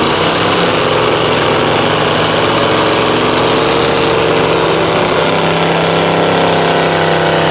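A truck engine running at a steady speed, its pitch wavering slightly about midway.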